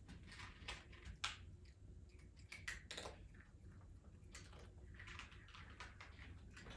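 Opossum chewing cat food: faint, irregular crunches and clicks of its bites.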